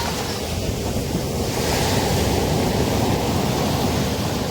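Sea waves breaking and washing up the shore: steady surf with a swell of hissing wash about two seconds in.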